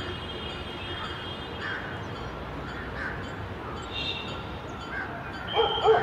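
Birds calling: short harsh calls repeated about once a second, with a louder, rougher call near the end.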